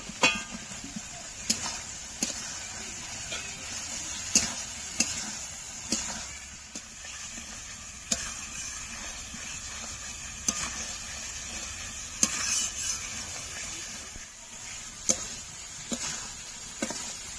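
Spiced masala with fried potatoes sizzling in hot oil in a pan while a spatula stirs it, with sharp knocks and scrapes of the spatula against the pan every second or two. The masala is being fried down until the oil separates.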